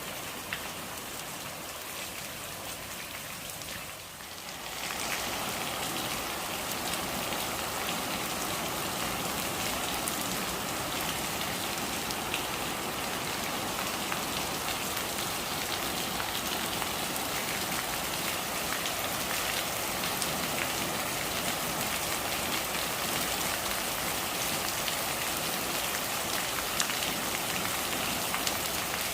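Steady rain falling and pattering on surfaces, a dense even hiss with fine drops; it dips briefly and then grows louder about five seconds in, holding steady after that.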